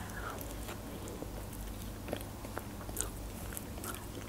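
Close-miked bite into an open sandwich followed by chewing, with scattered short wet mouth clicks.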